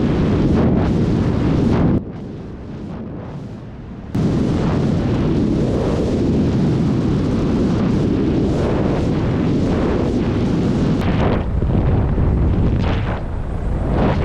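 Helicopter in flight: a loud, steady rush of rotor and wind noise buffeting the microphone. About two seconds in it drops abruptly to a quieter level, then comes back just as suddenly about two seconds later.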